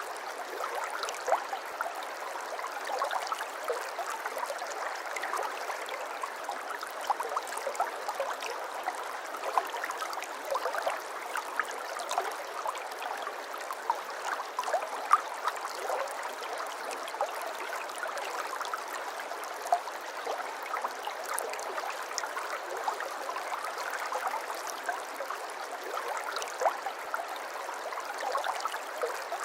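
Shallow stream of water flowing steadily and babbling, with many small splashes and drips over an even wash and no low rumble.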